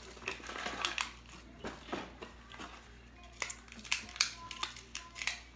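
Irregular sharp crackles and clicks of a crispy chocolate snack being handled and crunched: chocolate-covered macadamia nuts with rice crisps.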